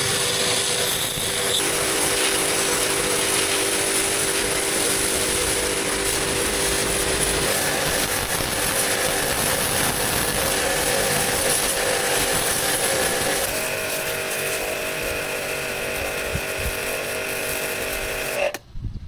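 A power tool running steadily on a workpiece, its pitch shifting about two-thirds of the way through, then cutting off abruptly near the end.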